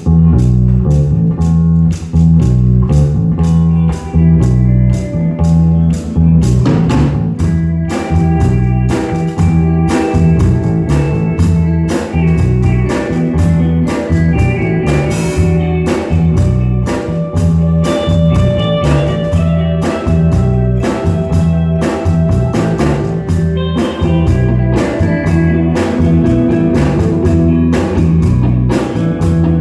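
Live rock band of guitars, bass guitar and drum kit playing an instrumental song opening with a steady beat and a repeating bass line.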